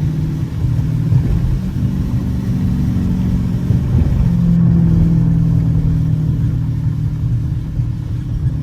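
Dodge Challenger R/T's V8 engine running on the road, a steady drone that rises in pitch and loudness about four to five seconds in as it pulls harder, then eases.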